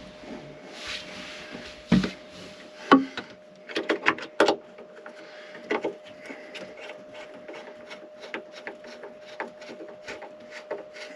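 Hand work on battery cables and terminals: scattered clicks, knocks and rustling of tools and cable lugs, with a quick cluster of knocks a few seconds in, over a steady faint hum.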